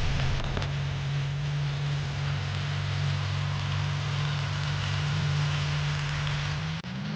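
Tractor engine running steadily at a constant speed, a low even drone. It cuts out briefly near the end and comes back slightly higher in pitch.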